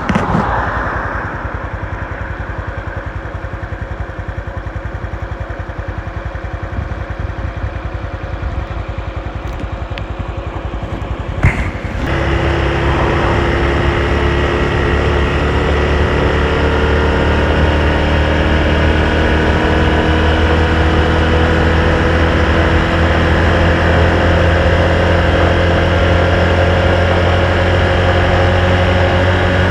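Honda Super Cub's single-cylinder four-stroke engine running. It runs quietly for the first twelve seconds or so. After a sharp click it runs louder and steady, its pitch slowly rising as the bike gathers speed.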